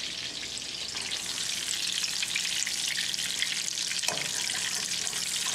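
Breaded chicken cutlets frying in shallow oil in a skillet, a steady sizzle as they are turned and lifted out with tongs.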